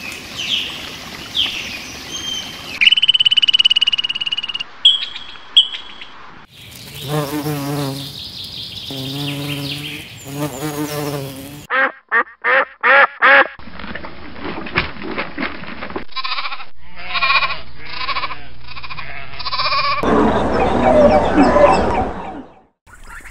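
A run of different animal calls cut one after another, changing abruptly every few seconds: repeated wavering calls, then a quick series of short calls, then a loud stretch near the end.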